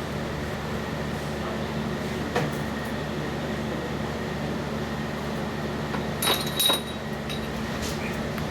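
Steady low machine hum, with a single knock a little over two seconds in and two sharp metallic clinks with a brief ringing tone about six seconds in.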